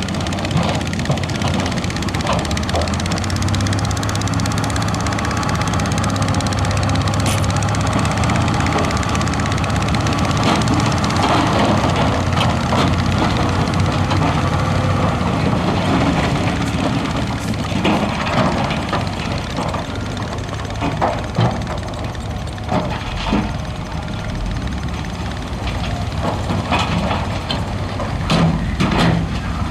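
Heavy diesel earthmoving machinery working gravel and rock: a steady engine drone, louder in the middle, with scattered knocks and clanks that come more often in the second half.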